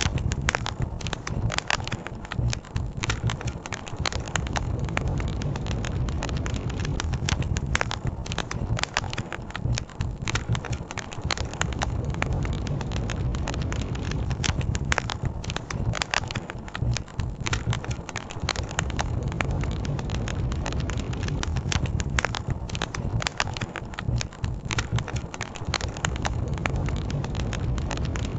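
Wood campfire crackling, with frequent sharp pops and snaps over a steady low rush of flowing river water.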